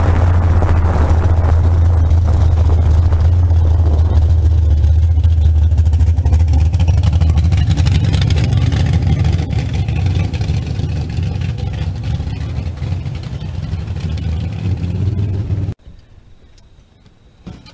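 Fuel-injected Holden 202 straight-six engine of a slingshot dragster running at a low, steady speed with a deep drone, easing off somewhat partway through, then cutting off abruptly near the end.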